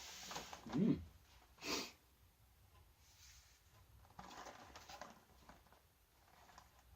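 A person tasting a biscuit roll gives a short appreciative hummed 'mmm', then a brief breathy burst. Faint mouth and handling noises of eating follow.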